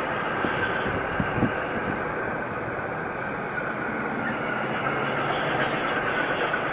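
Freight train of wagons carrying lorry trailers rolling past, a steady noise of wheels on the rails, with a few short knocks about a second in.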